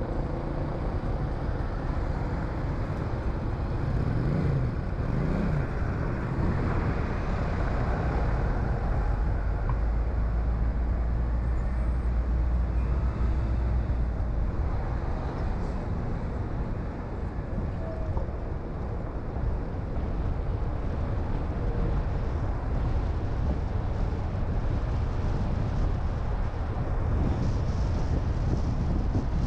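Car driving on town roads: steady engine and tyre noise with surrounding traffic, and a brief rising and falling engine tone about four to six seconds in.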